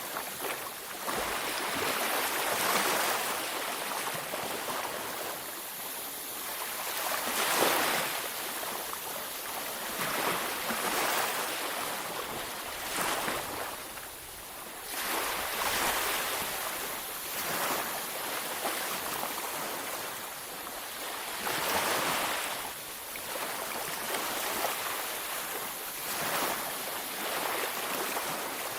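Ocean waves washing onto a beach: a continuous hiss of surf that swells with each breaking wave every few seconds, the loudest surge about a quarter of the way in.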